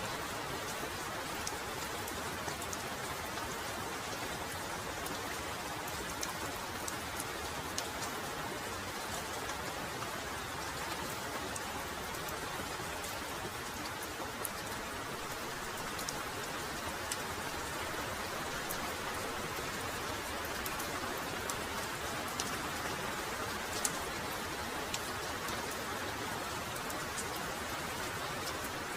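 Heavy rain falling steadily, an even hiss with individual drops ticking sharply here and there.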